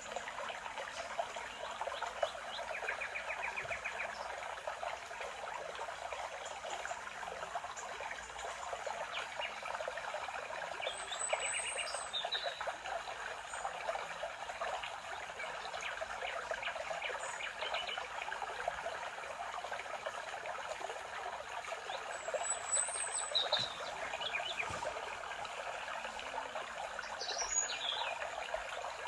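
Spring forest ambience: a steady babble of running water with scattered bird calls and chirps over it. High, sharp chirps come about eleven and twenty-two seconds in, and a few falling calls come near the end.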